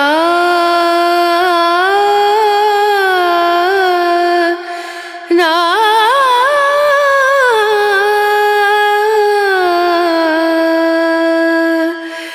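Background music: a solo voice singing Indian classical vocal music in long, held, ornamented notes on syllables like "na" and "re-na". The singing comes in two long phrases with a brief breath about five seconds in.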